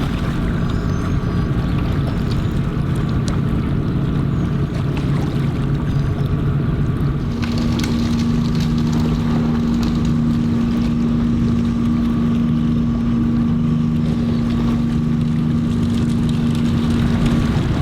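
Steady low engine drone of a ship, mixed with wind and water noise. A stronger hum tone comes in about seven seconds in and holds steady.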